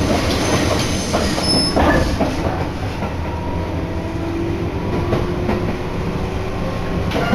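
Electric train running at speed, heard from inside the passenger car: a steady low rumble of wheels on rail, with scattered clicks over the rail joints and a faint steady whine.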